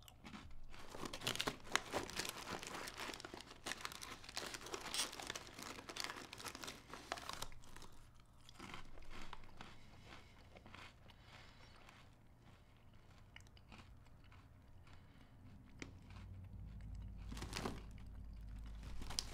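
A mouthful of crunchy Goldfish crackers being chewed: crisp crunching for the first several seconds, thinning out to quieter, sparser chewing. A short rustle near the end.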